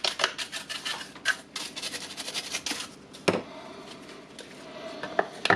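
A brush scrubbing dust off the inside of an opened cordless rotary hammer drill, in quick strokes about six a second that stop about three seconds in. Sharp clicks follow, one about three seconds in and another near the end.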